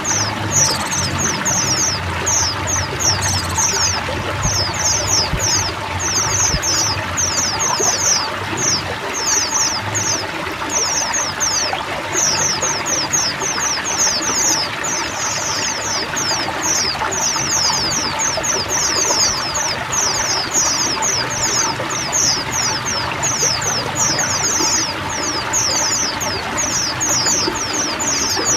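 A chorus of many white-eyes chirping and twittering at once, a dense run of quick high notes without pause, over the steady sound of running water.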